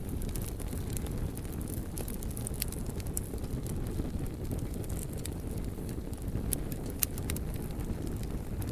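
Wood fire burning: a steady low rumble of flames with frequent sharp crackles and pops, one louder pop about seven seconds in.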